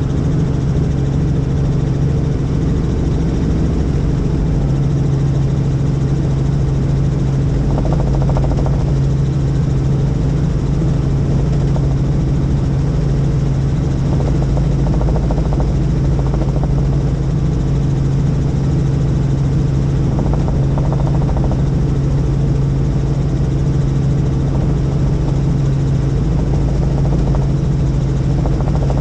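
Helicopter in flight: a steady, loud drone of the engine and rotor with a constant low hum.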